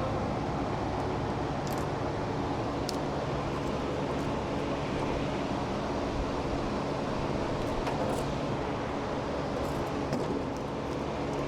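Steady rushing background noise with a low hum, like a running fan or machine, with a few faint light clicks.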